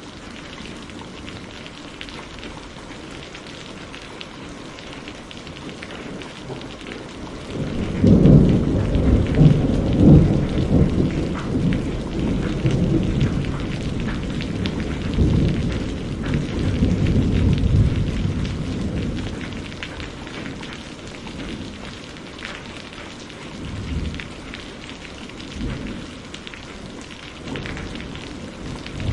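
Steady rain falling, with a long roll of thunder that swells about eight seconds in, rumbles for some ten seconds and fades, followed by a few fainter rumbles near the end.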